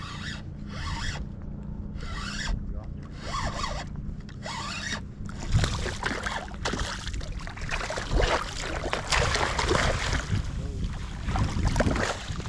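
Fishing reel reeling in line after a bite, in regular raspy strokes about once a second, then a denser, louder stretch of scraping and clicking from about five seconds in.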